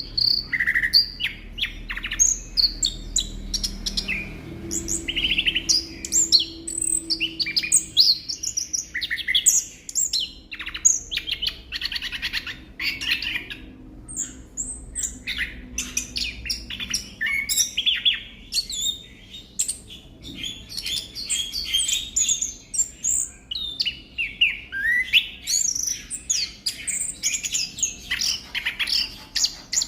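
Male orange-headed thrush singing a long, fast run of varied chirps and whistles, one phrase after another with hardly a pause.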